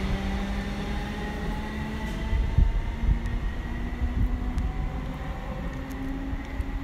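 A ScotRail electric multiple unit pulls away and accelerates, its motor whine slowly rising in pitch over a steady rumble of wheels on rail. A few knocks come from the wheels a couple of seconds in.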